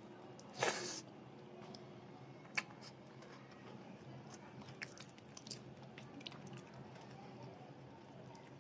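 Close-miked chewing and biting of food, with one loud crunch just under a second in and a sharp click a couple of seconds later, then softer small mouth clicks.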